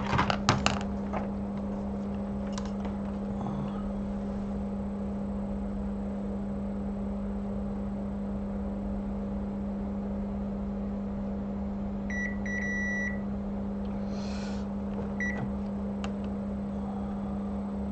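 Steady low electrical hum, with a digital multimeter giving short high beeps as its probes touch capacitors on the iPhone logic board during diode-mode testing: two beeps close together about two-thirds of the way in, and one brief beep a couple of seconds later.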